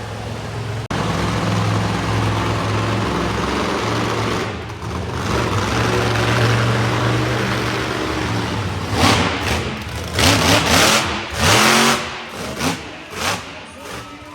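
Monster truck engine running hard at steady revs, then blipped in several loud sharp revs near the end, one sweeping up in pitch.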